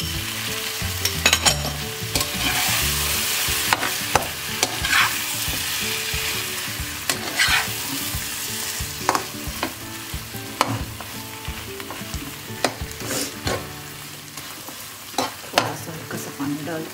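Chicken and fresh cream sizzling in a hot nonstick pan while a metal spatula stirs and scrapes through it, with repeated clicks of the spatula against the pan. The sizzle is loudest in the first few seconds, as the cream goes in, then eases.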